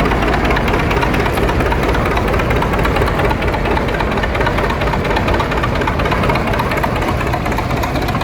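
Farm tractor engine running steadily and loudly at low speed.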